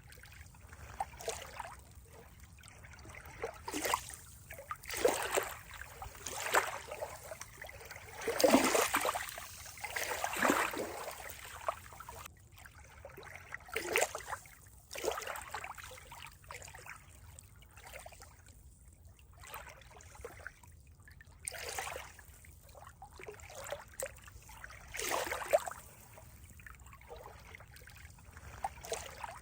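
Water trickling and gurgling in an uneven stream of small splashes, with a few louder splashes now and then.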